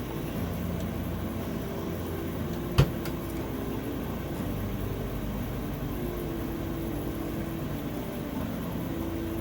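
Steady low background hum with faint tones, broken by one sharp click a little under three seconds in.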